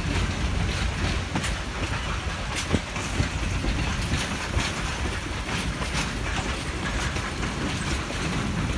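Railroad passenger cars rolling past, their steel wheels clicking irregularly over the rail joints over a steady low rumble.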